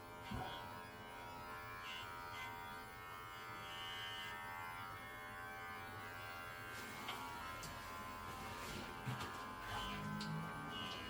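Electric pet hair clipper running with a steady buzz as it trims a cat's fur, with a few brief clicks.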